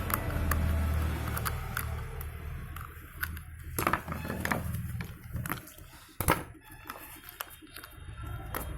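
Scattered small clicks and light knocks of a screwdriver and plastic extension-board housing being handled as its screws are taken out. One sharp click stands out a little past the middle, and a low rumble fades in the first couple of seconds.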